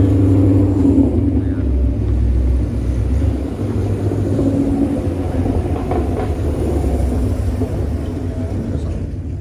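A car engine idling nearby with a low, steady rumble, easing off slightly toward the end.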